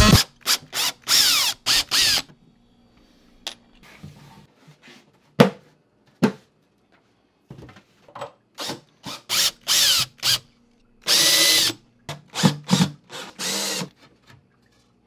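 Handheld electric power tool run in short bursts on the trigger, its motor whining up in pitch at the start of several bursts, with pauses in between.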